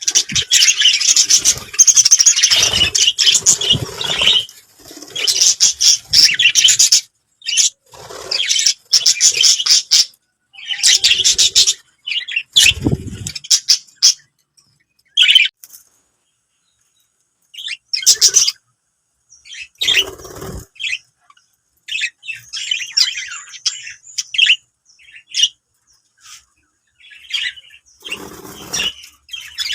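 A flock of budgerigars chattering and chirping in bursts, with fast high warbling calls and short gaps of quiet between them. Now and then a wing flutter or a soft thump.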